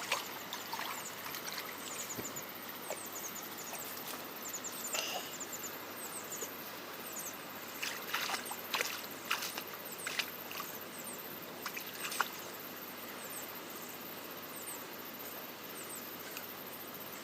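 Water flowing steadily, with a few sharp clicks and splashes clustered in the middle and faint short high chirps scattered through it.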